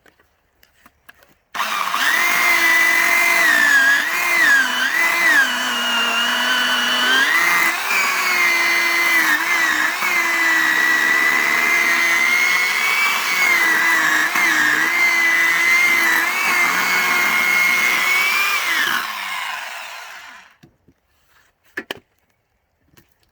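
Corded electric chainsaw cutting through a log: it starts abruptly about a second and a half in and runs steadily, its pitch dipping at times as it bites into the wood, then is switched off and winds down near the end.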